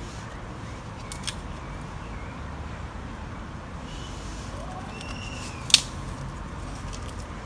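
Small twig-and-kindling campfire just catching, with two sharp twig cracks, a small one about a second in and a much louder one near six seconds, and a few faint crackles over a steady low rumble.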